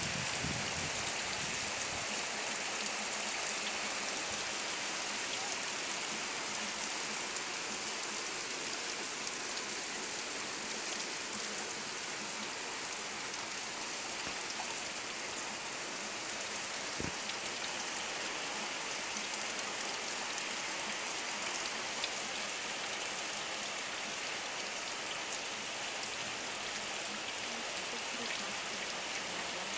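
Heavy rain falling steadily on a wet concrete yard and the surrounding trees: an even, unbroken hiss.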